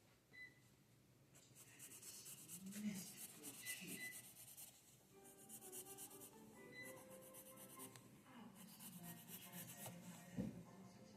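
Drawing strokes scratching on paper, in two quick bouts of rapid back-and-forth strokes, with a soft knock near the end.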